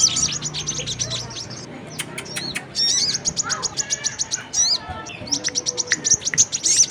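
Bird-lure recording of sogon and brown-throated sunbird calls: rapid high-pitched chirping trills of about ten notes a second. The trill breaks off about half a second in, gives way to scattered sharp notes and a shorter chirping series around three seconds, and returns near the end.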